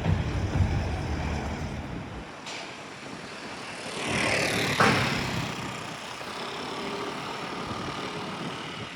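Outdoor city street noise: wind rumbles on the microphone for the first two seconds, then a vehicle passes by, its noise swelling and fading about four to five seconds in, with a sharp click near the loudest point.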